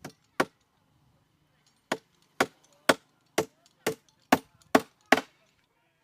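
A series of about ten sharp blows on wood: two strikes, a pause of about a second and a half, then eight more at roughly two a second.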